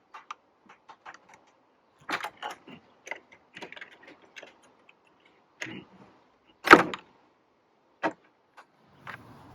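Small metal clicks and rattles of gate-latch hardware being handled and fitted, with a loud sharp knock about two thirds of the way in and a smaller one about a second later.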